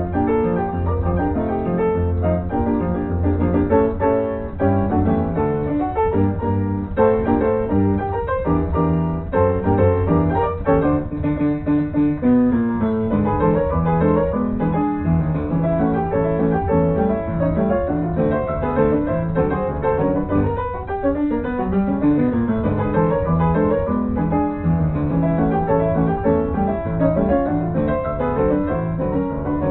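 Piano music: a steady stream of notes with a bass line.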